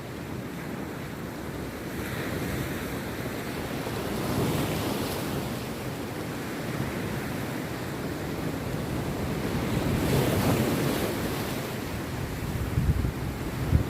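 Rough sea surf breaking on a beach, the wash swelling up about four seconds in and again about ten seconds in. Wind buffets the microphone, with a few low thumps near the end.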